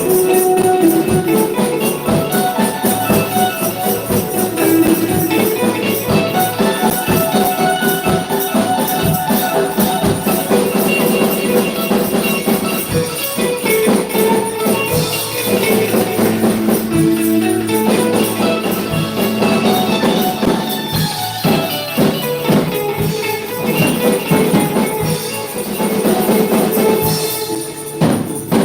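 Worship band playing live music, with percussion sounding throughout.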